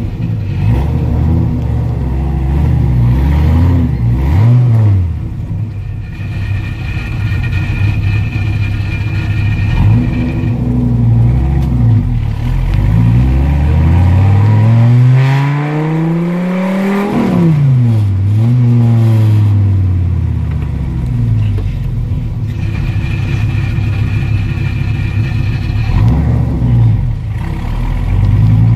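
2010 Dodge Viper ACR-X's 8.4-litre V10 heard from inside the cabin, accelerating through the gears, its pitch climbing and dropping at each shift. About halfway through, one long pull rises high before falling sharply at a gear change.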